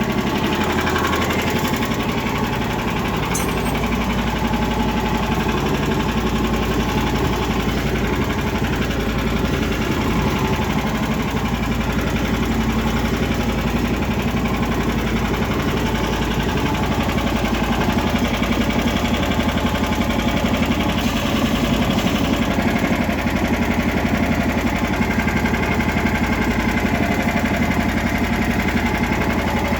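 Lifan engine of a homemade karakat running steadily during its first runs after being fitted.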